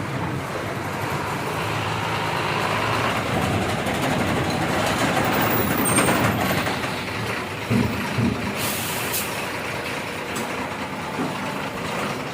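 Lorry's diesel engine running as the truck moves slowly, with a short air-brake hiss about nine seconds in.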